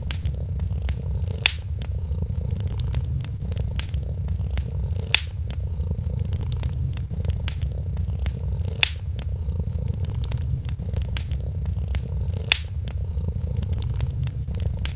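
A cat purring in a steady low rumble over a crackling wood fire. Small pops run throughout, with a sharper, louder pop about every four seconds.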